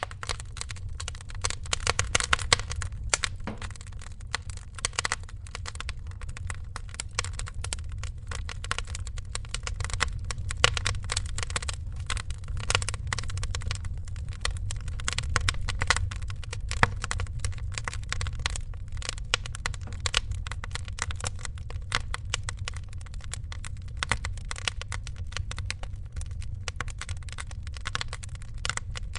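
Wood fire crackling in a fireplace: a steady stream of small irregular snaps and pops over a low rumble.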